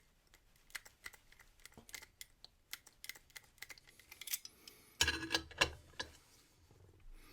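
Quick light metallic clicks and ticks from a brass key blank being worked in a Yale and Towne wafer cam lock during impressioning, with a louder clatter about five seconds in.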